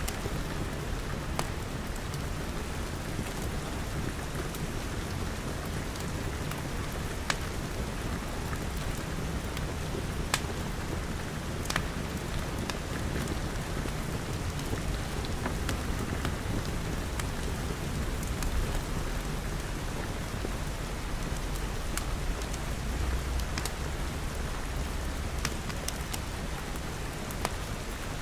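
Steady rain pattering on glass walls and roof, with scattered sharp crackles from a wood fire. A low rumble runs underneath and swells a little near the end.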